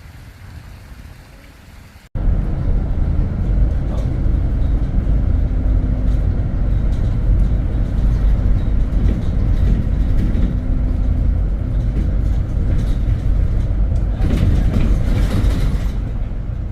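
Vehicle driving on the road: a steady low engine and road rumble that comes in abruptly about two seconds in, after a quieter stretch, with a rush of added noise near the end.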